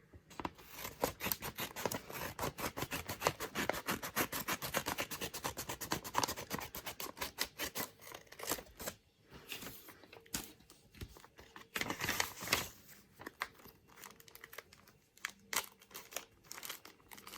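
Packaging being cut and torn open by hand: a dense run of rapid crackling, tearing and snipping for about the first nine seconds, then sparser rustles and snips.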